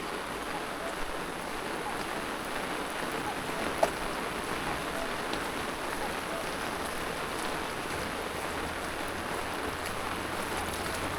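Steady rain falling, an even hiss of drops, with a single sharp tap about four seconds in. A faint low hum comes in about eight seconds in.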